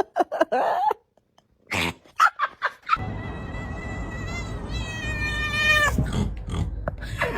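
Domestic cat making odd short cries, then a long, drawn-out yowl held at a steady high pitch for about three seconds over a low rumble, breaking off near the end.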